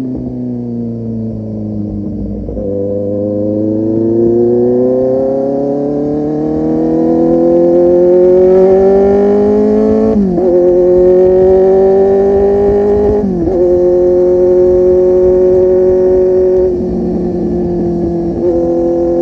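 Kawasaki Z800's inline-four engine through a full-system aftermarket exhaust, accelerating through the gears. The pitch falls at first, then climbs steadily, breaking for quick upshifts about ten and thirteen seconds in. It then holds a steady cruise, with the throttle eased off briefly near the end.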